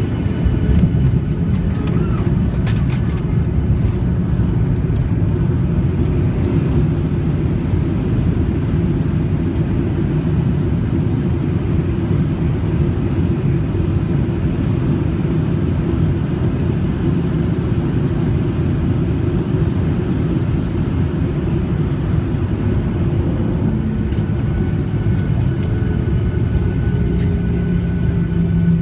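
Cabin noise of a Boeing 737-800 during landing: a loud, steady rumble of its CFM56 engines and airflow, with a few faint clicks and rattles. Near the end a lower engine tone comes in and a higher one slides slightly down.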